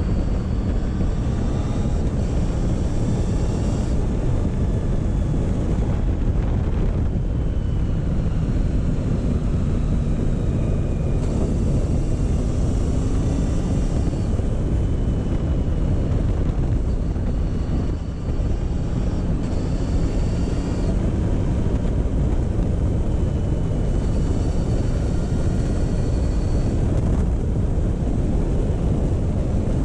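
Motorcycle engine running under way at a slow pace, a steady dense rumble whose pitch rises and falls a few times as the revs change, with a brief drop about eighteen seconds in.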